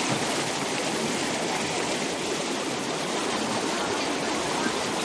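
Fast-flowing flash-flood water rushing, a steady, even noise.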